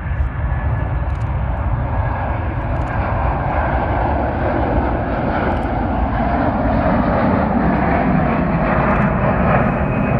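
Airliner engines growing steadily louder as the aircraft passes close by, with a whine that falls in pitch in the second half.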